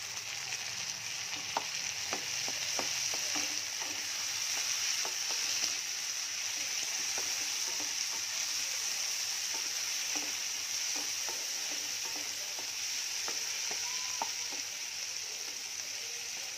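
Chopped onions and tomatoes sizzling in oil in a non-stick frying pan: a steady frying hiss, with scattered scrapes and taps of a spatula stirring them.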